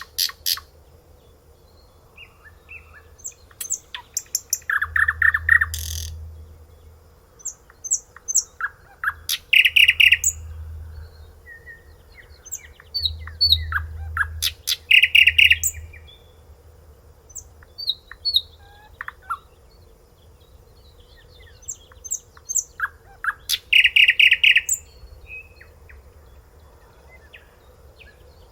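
A songbird singing in varied phrases, with a loud, rapid trill of repeated notes every few seconds and scattered short chirps in between.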